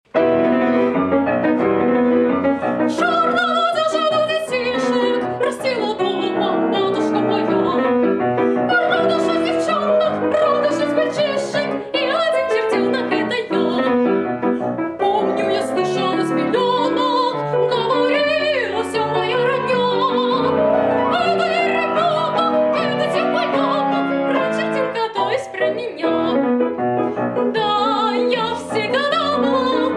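A woman singing an operetta aria in a classical style with vibrato, accompanied by piano.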